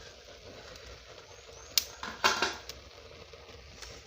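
Cooking-pot lid being handled: a sharp click just before two seconds in, then a brief clatter, over faint background noise.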